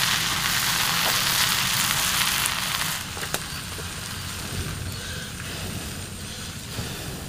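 Water spinach sizzling as it is stir-fried in a hot wok over a wood fire. The sizzle is loud for about the first three seconds, then drops to a quieter sizzle, with a single sharp click about three and a half seconds in.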